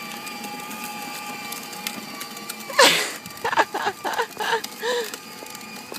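Steady electric whine of a child's battery-powered ride-on toy motorcycle's motor. A sudden loud noise comes about three seconds in, followed by a few short voice sounds.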